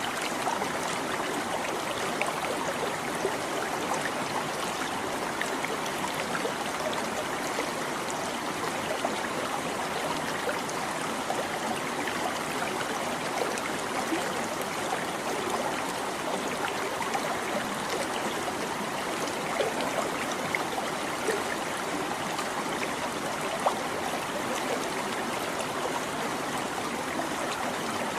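Small stream babbling steadily over stones, a continuous rush of water with little splashes and trickles.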